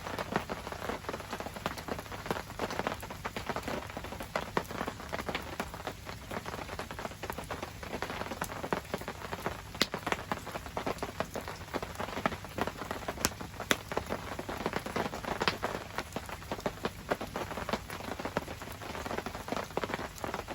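Steady rain falling on surfaces: a dense spread of drop hits, with a few louder sharp ticks now and then.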